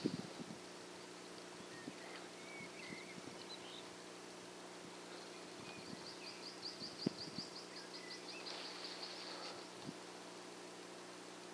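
Birds calling in open country: a fast, high trill of about ten notes a second runs for about four seconds midway, with scattered short chirps. Under it are a faint steady hum and a few light knocks.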